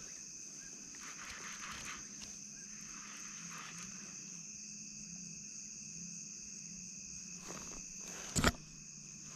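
Steady night-insect chorus, crickets trilling in continuous high tones, with a single sharp knock about eight seconds in.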